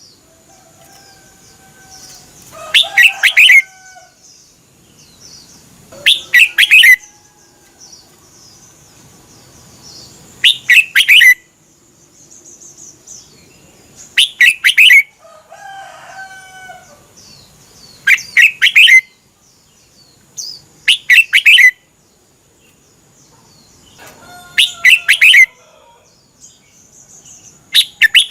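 Red-whiskered bulbul singing short, loud, warbling phrases, one every three to four seconds. Fainter bird calls come in between, over a thin steady high tone in the background.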